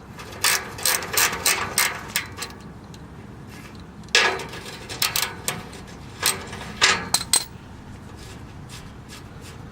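Hand socket ratchet clicking in short bursts of strokes, sharp metallic clicks a few per second, while exhaust bolts are worked loose. The loudest clicks come about four seconds in and again around seven seconds in, and the clicking stops shortly after.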